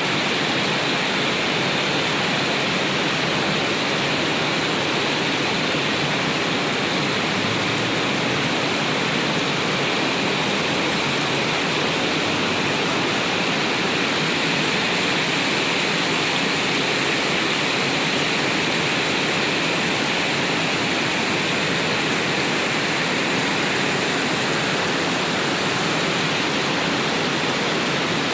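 Heavy rain pouring down, a steady, unbroken rushing hiss with no let-up.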